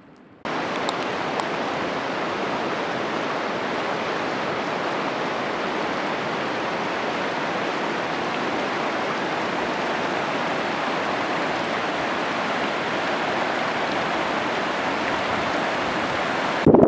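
Steady rushing of strong wind and choppy lake water, starting suddenly about half a second in and cutting off just before the end, with a brief louder knock at the cut.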